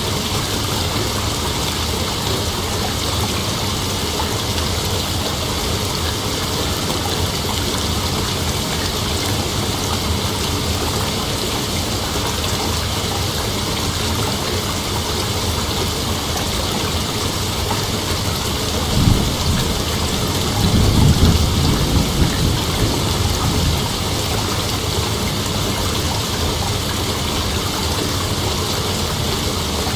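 Steady chorus of night insects, heard as a dense, even hiss. A low rumble comes in about nineteen seconds in and again for a few seconds just after.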